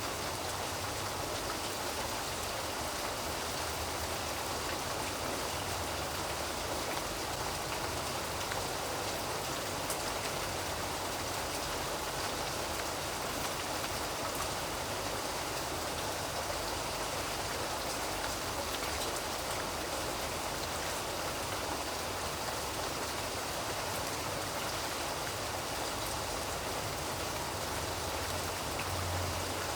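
Steady rain falling, an even hiss of drops on a surface with no let-up.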